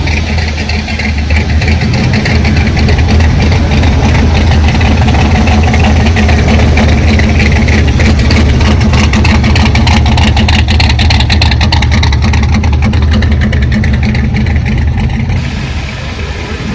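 A loud custom car or hot rod engine rumbling through its exhaust as the car rolls slowly by, dropping off about fifteen seconds in.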